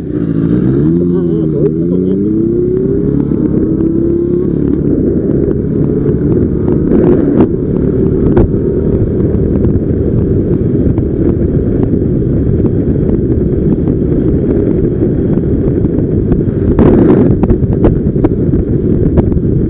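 Motorcycle engine pulling away, its pitch rising, dropping back and rising again through a few gear changes in the first four seconds, then cruising under a heavy, steady rumble of wind buffeting the microphone. A few brief knocks sound later on.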